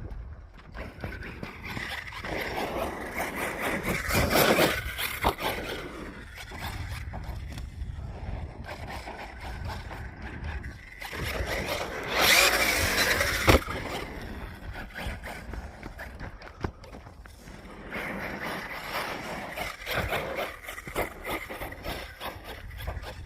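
Team Corally Kagama RC stunt truck driving on dirt: its electric motor whines up and down in several runs, with the tyres scrabbling on the dirt. A sharp knock about 13 seconds in is the truck landing.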